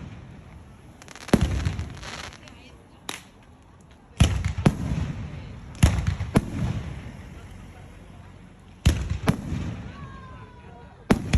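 Aerial fireworks shells bursting: sharp booms, mostly in pairs about half a second apart, each trailing off in a rumbling echo, with about nine bangs spread across the stretch.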